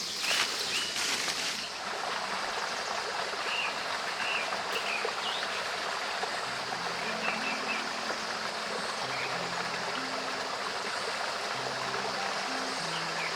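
Steady rush of flowing water with small birds chirping now and then. About halfway through, soft background music of low, slowly changing notes comes in under it.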